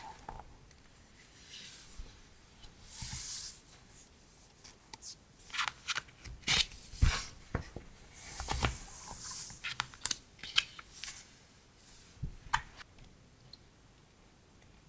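Hands handling stationery and its packaging: rustling and crinkling of paper and plastic, with a few light taps and clicks.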